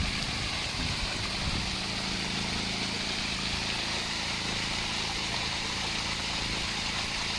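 Steady motor hum with an even rushing noise of falling water from a pool waterfall.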